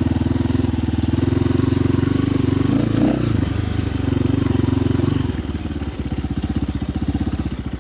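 Dirt bike engine running with a fast, even firing pulse at a steady pitch, then easing off about five seconds in.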